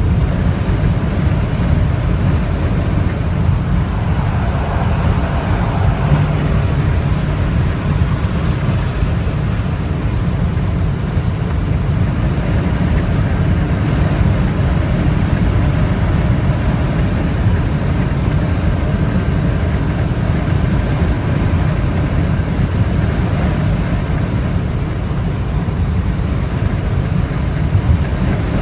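Strong wind of a snowstorm buffeting the microphone: a loud, steady low rumble with no breaks.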